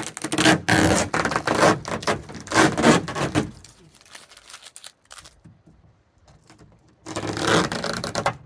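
Duct tape being peeled off a plastic roof box shell, with rasping tearing pulls through the first three and a half seconds and another pull about seven seconds in.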